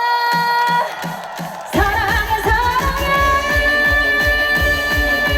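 Live trot band music played loud through a stage PA. A long held note stops about a second in, then after a brief lighter patch of beats the full band comes back in with a steady driving drum beat and a held high note on top.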